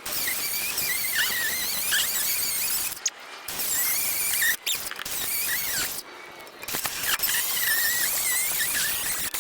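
Grinder with an abrasive cut-off wheel cutting through the steel of a trailer hitch welded to a vehicle frame: a steady hiss with a wavering high whine. It cuts in three runs, with brief pauses about 3 and 6 seconds in.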